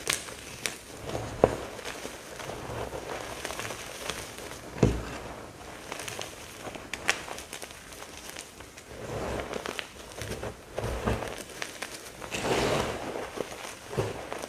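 Crunchy teal pasted chalk blocks and chunks being crushed and crumbled, an irregular run of crunches and crackles. There are sharp snaps about a second and a half in and again about five seconds in, and a denser spell of crumbling near the end.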